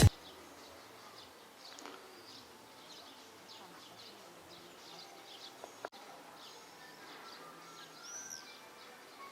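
Faint outdoor ambience with small songbirds chirping repeatedly. A single sharp click comes about six seconds in.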